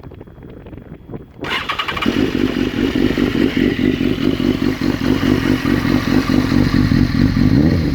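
BMW S1000RR inline-four engine starting: the starter cranks briefly about a second and a half in, then the engine catches and idles steadily through a de-catted Black Widow header and Pipe Werx end can.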